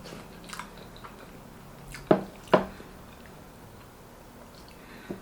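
Close-miked wet chewing and mouth sounds of a person eating soup and soft beef, with two loud sharp clicks half a second apart about two seconds in.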